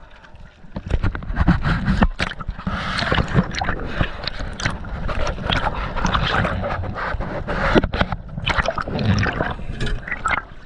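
Water splashing and gurgling, with many knocks and scrapes, starting about a second in.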